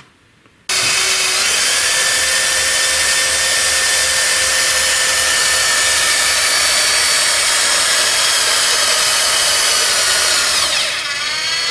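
Cordless drill running steadily, driving the VAZ 2102 engine's oil pump through the distributor drive opening to pre-prime the rebuilt engine with oil and fill the oil filter. It starts suddenly about a second in, and its whine drops slightly in pitch near the end.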